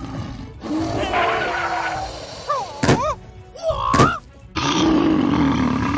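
Cartoon soundtrack: background music with two thuds about three and four seconds in, each joined by a short wavering pitched sound.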